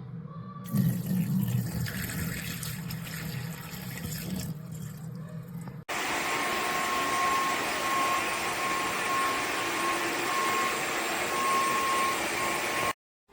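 Cordless wet-dry vacuum mop running, with water being drawn through it. After a cut about six seconds in, the motor runs louder and steady with a faint high whine, then stops abruptly shortly before the end.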